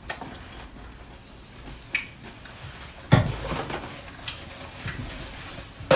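Mouth sounds of people chewing crisp batter-fried squash blossoms, with scattered small clicks and a thump on the table about three seconds in.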